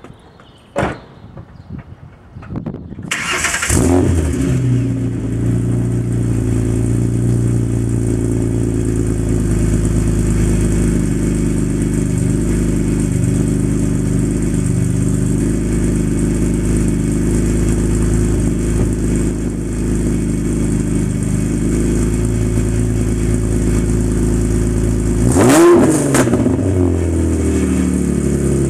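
Ford Mustang V6 with dual Magnaflow mufflers: after a click, the engine starts about three seconds in and settles into a steady idle through the exhaust. Near the end it is revved briefly, the pitch rising and falling.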